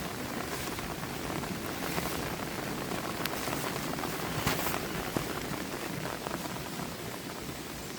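Heavy rain falling steadily, with many separate drops landing close by as sharp ticks over an even hiss.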